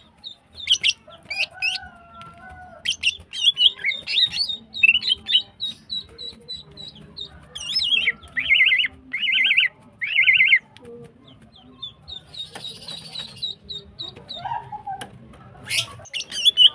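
Female green leafbird (cucak ijo) calling: rapid strings of high, sharp chattering and whistled notes, with three short buzzy trills in a row near the middle.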